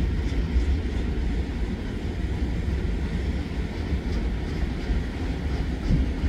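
BNSF manifest freight train rolling past with a steady low rumble.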